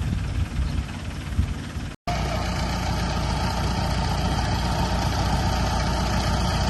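Heavy diesel engine of earthmoving machinery running steadily at low speed. The sound drops out for a moment about two seconds in, then the engine carries on.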